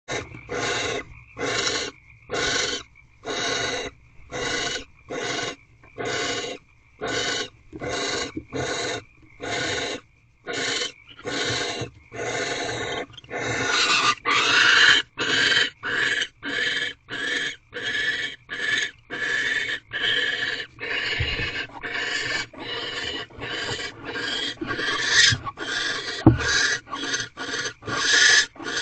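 Barn owl giving a long series of short, harsh, rasping hisses, about two a second: the food-begging 'snore' call of barn owls. About halfway through, the hissing becomes louder and almost continuous, then breaks up again into quicker hisses.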